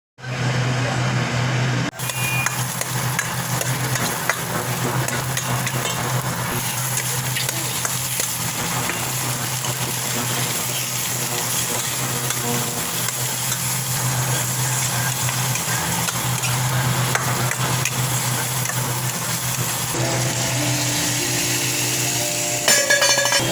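Food sizzling in hot oil in a pan, with small scrapes and clicks of stirring over a steady low hum. A brief clatter comes near the end.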